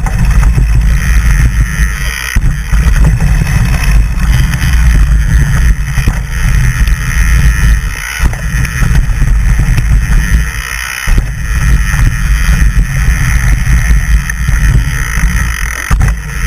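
Heavy wind buffeting on the microphone of a camera riding along on a mountain bike descent: a loud, uneven rumble that drops out briefly a few times.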